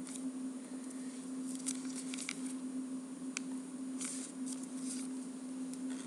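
A square sheet of origami paper being folded and creased by hand, with soft rustles and several short, crisp crinkles as a flap is brought to the center line. A steady low hum runs underneath.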